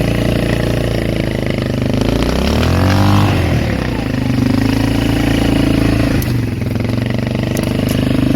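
Polaris Magnum 425 ATV's single-cylinder four-stroke engine running. It revs up about two seconds in, drops back a second or so later, then runs steadily.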